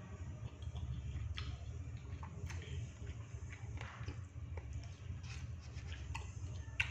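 Eating sounds: chewing and small mouth and utensil clicks while eating batagor, fried fish dumplings, scattered over a steady low hum, with one sharper click near the end.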